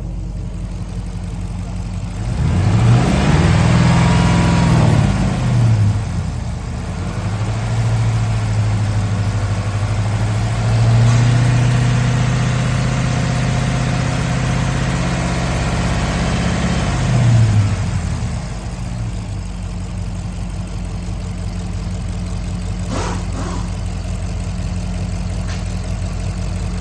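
A 2011 Dodge Durango's 5.7-litre HEMI V8 running on a run test. It idles, is revved once briefly about three seconds in, then is revved and held at a raised speed for several seconds before dropping back to a steady idle.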